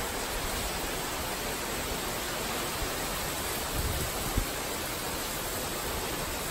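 Heavy tropical thunderstorm rain falling steadily, an even hiss, with a brief gust of wind on the microphone a little after four seconds in.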